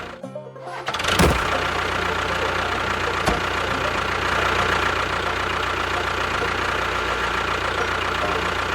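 Engine running steadily. It cuts out briefly near the start, comes back with a loud surge about a second in, and gives a single sharp click about three seconds in.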